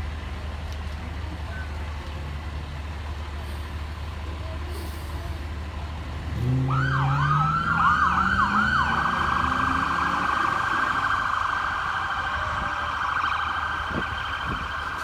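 A steady low vehicle rumble, then about six seconds in a siren starts: a few quick rising-and-falling sweeps, then a fast steady warble. Under the siren's start, a low engine note rises in pitch for a couple of seconds.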